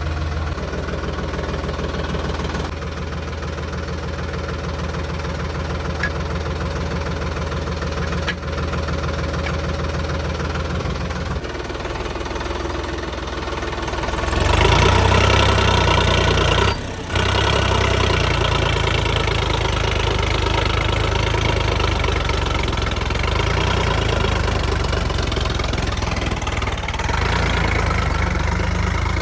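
Tractor diesel engine running steadily at low speed, then louder from about halfway through, with a brief gap in the sound shortly after.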